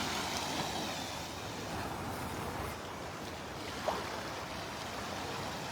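Small Gulf waves washing onto the beach, a steady rush of surf. A brief faint sound cuts in about four seconds in.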